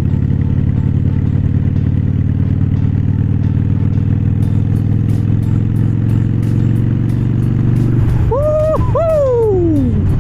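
Harley-Davidson Iron 883's air-cooled 883 cc V-twin running steadily at cruise. About eight seconds in, the engine note changes, and a brief high tone rises, holds, then slides steeply down.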